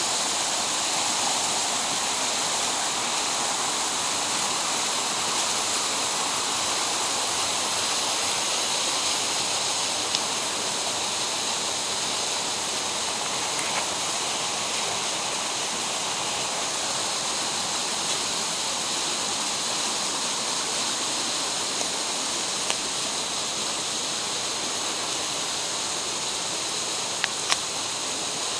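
Mountain stream water rushing steadily over rocks in a gorge, with a few faint ticks near the middle and near the end.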